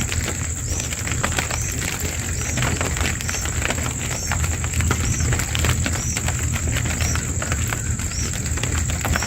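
A bird's short, high chirp repeated about once a second, over a steady high-pitched hiss, irregular ticking and a low rumble.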